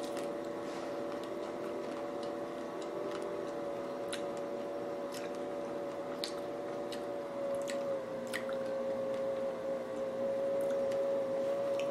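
Close-up chewing of a chocolate-covered strawberry: soft, wet mouth sounds and scattered small clicks. Underneath is a steady background hum that drops slightly in pitch about eight seconds in.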